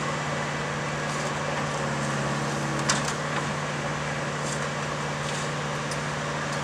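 Diesel engine of railway track maintenance machinery running with a steady low hum, and one sharp metallic knock about three seconds in.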